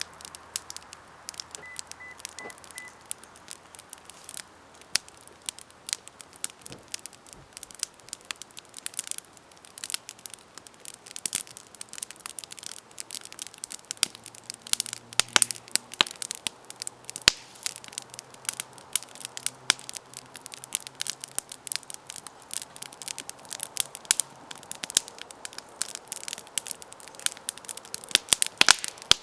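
Campfire burning, with irregular crackling and sharp pops from the wood, sparse at first and growing busier after about ten seconds.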